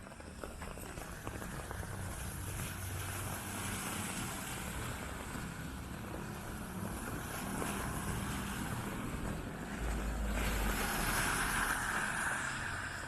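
Street traffic on wet roads: a steady hiss of tyres and engines, with a vehicle passing closer and louder about ten seconds in.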